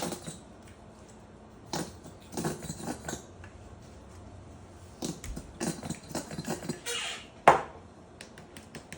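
Nearly empty squeeze bottle of Dijon mustard being squeezed, giving short sputtering squirts of air and mustard in several irregular bursts, with a sharp knock about seven and a half seconds in.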